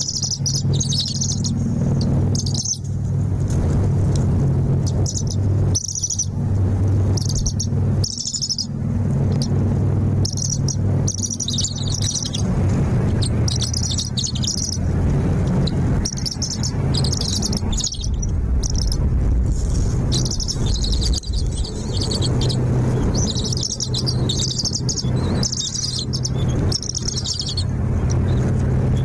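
Birds chirping in repeated high-pitched bursts throughout, over a steady low hum.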